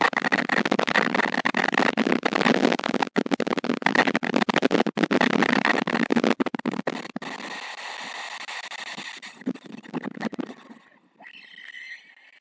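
Gusty wind buffeting the outdoor nest-camera microphone: a loud crackling rush that eases about seven seconds in and fades out near the end, leaving a faint steady high tone.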